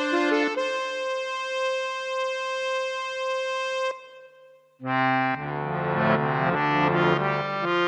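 Yamaha PSR-SX arranger keyboard playing a voice demo. A melody ends on a long held note that fades out about four seconds in. After a short gap, a fuller passage with chords and a bass line begins.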